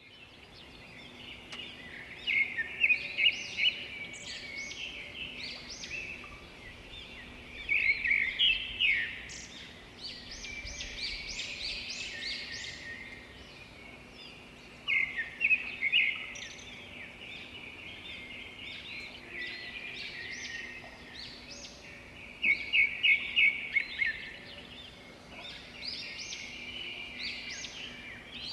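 Birds chirping and calling, a busy chatter of sharp high notes, with louder runs of quick repeated notes every several seconds.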